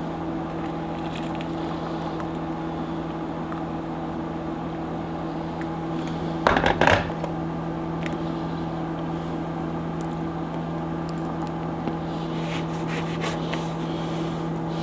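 Steady electrical hum of a running kitchen appliance, typical of a microwave oven heating, with one brief loud clatter of kitchenware about six and a half seconds in.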